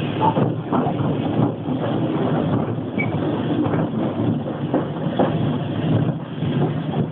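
Passenger train running along the line, heard from inside the carriage: a steady rumble of wheels on the track with irregular knocks and rattles.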